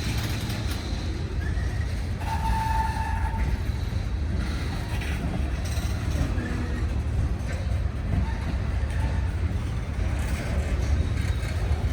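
Freight train cars rolling past with a steady low rumble. A brief high tone sounds for about a second, a couple of seconds in.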